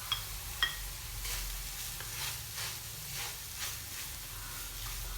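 A spoon stirring and scraping through a frying-pan mixture of fried onion, egg and spices as grated potato is mixed in, with a light sizzle. Two sharp taps of the spoon on the pan come in the first second, then repeated scraping strokes.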